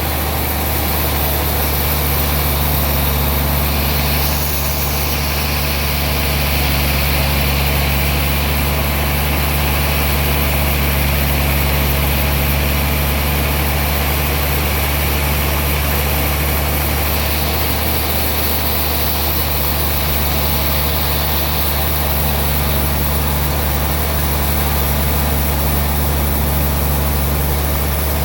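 Sawmill machinery running steadily while sawing a large trembesi log, a continuous deep hum under a broad whir with no breaks.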